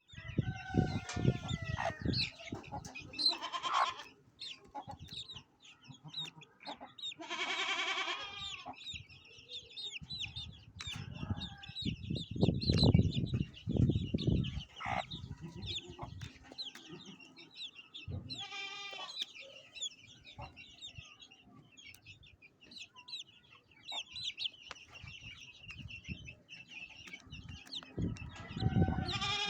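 Chickens clucking and calling, over steady high-pitched chirping. Two longer calls stand out about 8 and 19 seconds in, with dull knocks near the middle.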